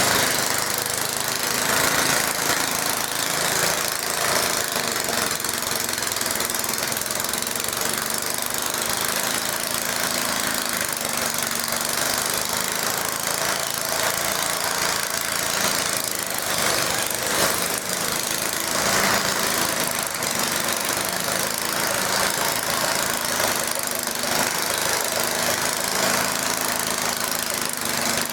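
Tractor engine running steadily and fairly loud, with a steady hiss over it.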